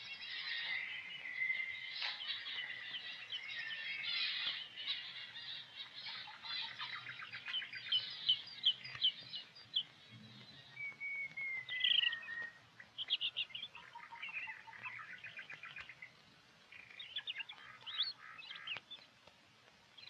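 Small birds chirping and twittering, many short calls and trills overlapping, with one drawn-out falling whistle about halfway through.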